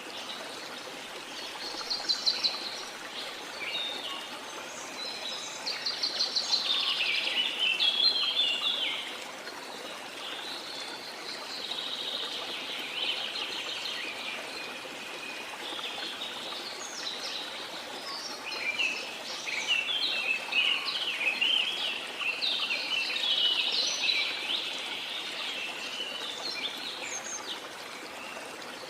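Several songbirds singing in rapid trilled and chirping phrases, which come and go in bursts, over the steady rush of flowing river water.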